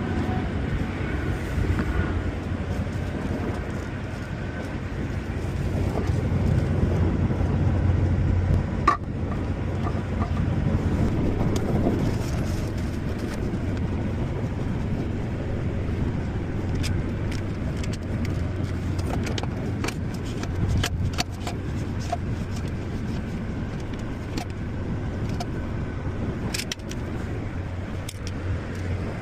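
Engine running with a steady low rumble, with scattered light clicks and knocks in the second half.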